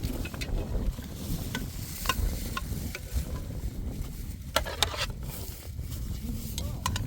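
Wind rumbling on the microphone outdoors, with scattered short clicks and rustles throughout and a brief busier cluster of them about two thirds of the way in.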